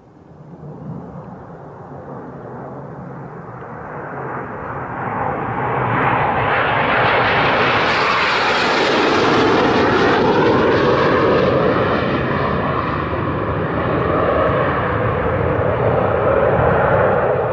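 An aircraft passing overhead: a rushing engine noise that swells over several seconds with a sweeping, phasing quality, then stays loud and begins to fade near the end.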